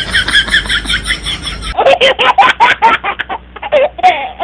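A hen squawking and cackling in rapid runs of short calls, high-pitched at first, then lower and choppier after an abrupt change about a second and a half in.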